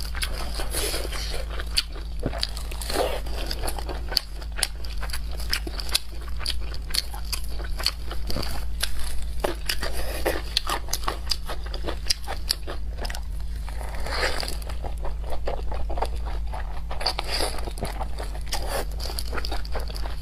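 A person chewing and smacking mouthfuls of boiled dumplings: a dense, steady run of wet mouth clicks with a few louder chewing smacks, over a steady low hum.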